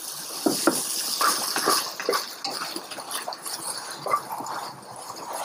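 Sliced chicken sizzling in hot oil in a wok as it goes in and is stirred, with a wooden spatula scraping and knocking against the pan many times.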